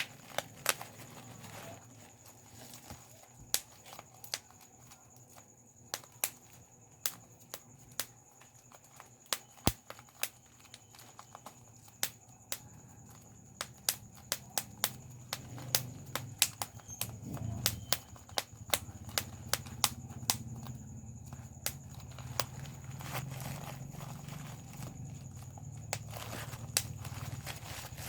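Bubble wrap being popped by hand, one bubble at a time: sharp, irregular snapping pops, several a second. A faint low rumble builds under the pops in the second half, and a faint steady high whine runs underneath.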